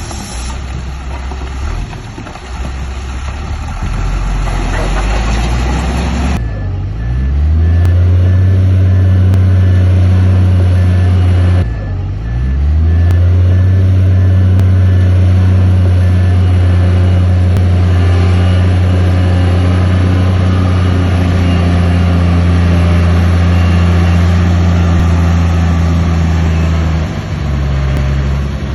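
Heavy construction machine's diesel engine. After a few seconds of rough, mixed noise it revs up and runs loud and steady under load. About twelve seconds in it briefly drops and climbs back, and it eases off near the end.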